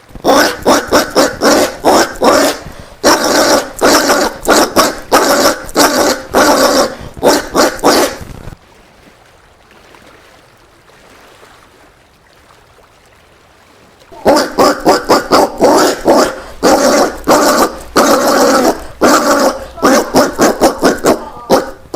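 Collared peccary giving rapid, repeated bark-like calls, several a second, in two bouts: about eight seconds of calling, a pause of some six seconds with only faint background noise, then calling again.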